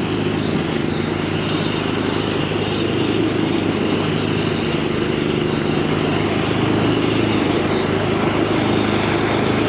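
Engine-driven rice thresher running steadily, a constant engine drone.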